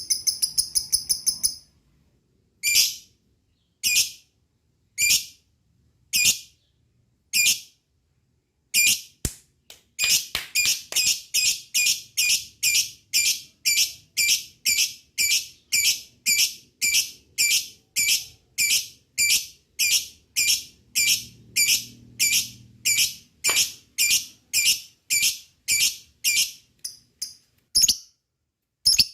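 Lovebird giving sharp, shrill calls. A fast chattering trill stops about a second and a half in. Single calls follow about once a second, and after a short pause comes a long run of calls at about two a second.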